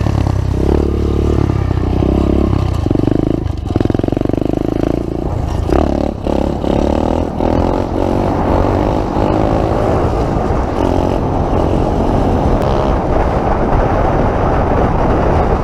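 Pit bike engine running under way, revving up and easing off a few times in the first few seconds, then holding at higher, fairly steady revs.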